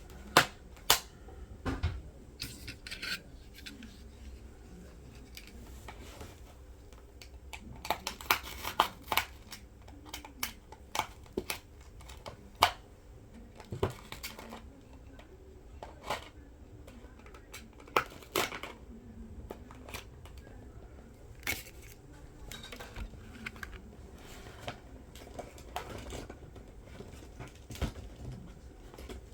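Toy packaging being worked open by hand to free diecast monster trucks: irregular sharp clicks, snaps and tearing, in clusters, with quieter handling in between.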